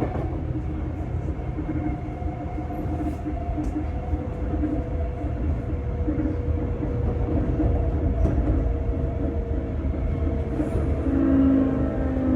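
Sotetsu 8000 series electric train heard from inside a motor car: traction motor and inverter whine in several tones slowly falling in pitch over a steady wheel-and-rail rumble, as the train brakes. A louder low tone comes in near the end.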